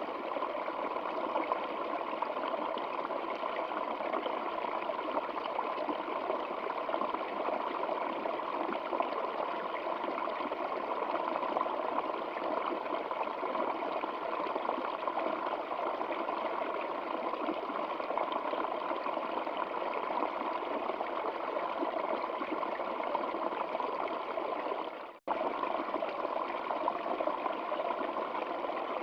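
Steady rushing and babbling of a flowing stream. About 25 seconds in it fades and cuts out for a split second, then resumes at full level.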